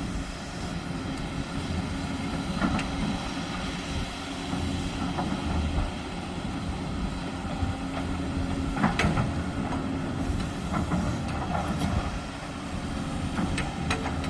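Diesel heavy construction equipment running while working a gravel road base: a steady low engine rumble, with a few sharp metallic clanks and knocks.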